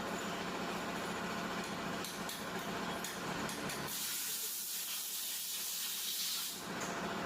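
A steady hum for about four seconds, then a hiss of about three seconds that covers it before the hum returns.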